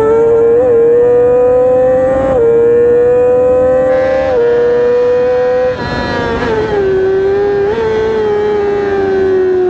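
Yamaha R6 inline-four engine running at high revs under hard acceleration, its whine climbing with two quick upshifts. About six seconds in the throttle closes and the revs fall away, with a short rise near eight seconds.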